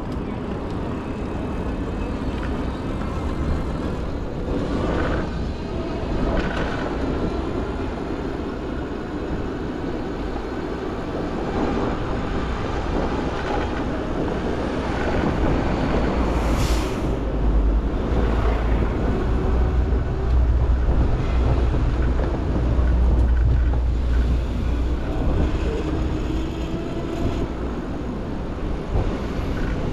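Downtown street traffic heard from a moving bicycle: a steady wash of passing vehicles over a low rumble that grows louder in the second half, with a short hiss about halfway through.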